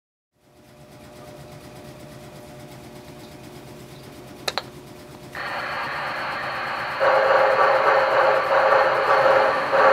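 QSI Maxx Traxx model-train sound unit playing recorded steam-locomotive sounds through its speaker: a faint steady hum starts about half a second in, with a quick double click after about four seconds. Then a louder hiss with a thin high tone comes in, and about seven seconds in a louder, unevenly pulsing noise joins it.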